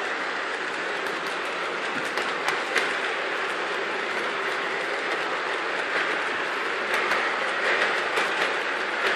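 O scale model train rolling along the layout track with Lionel 86-foot auto parts hi-cube boxcars in tow: a steady rolling rumble of wheels on the rails with scattered sharp clicks over the rail joints.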